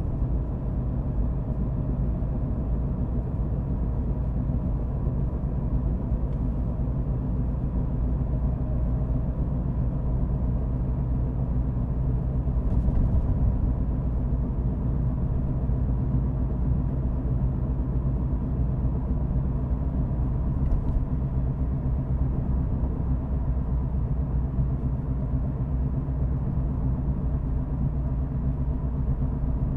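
A car driving at steady speed: continuous low engine and road rumble, swelling slightly about halfway through.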